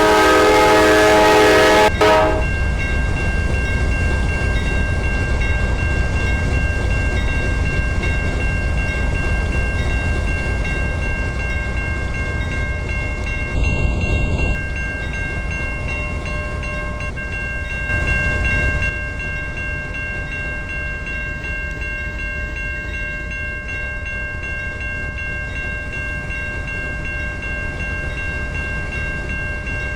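Norfolk Southern train: the locomotive's air horn sounds a chord that cuts off about two seconds in. The train then rumbles past steadily, with a thin high whine over the rolling noise.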